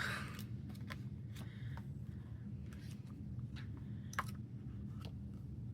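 Album packaging and photo cards being handled: scattered light clicks and rustles of paper and card, with a sharper click about four seconds in, over a low steady hum.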